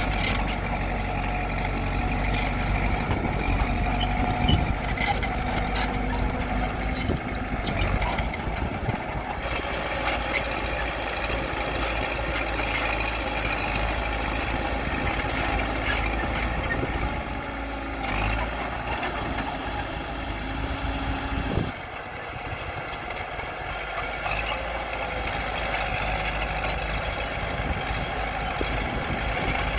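Heavy diesel earthmoving machinery running steadily, with many short clanks and squeaks over the engine. The engine note drops somewhat about 22 seconds in.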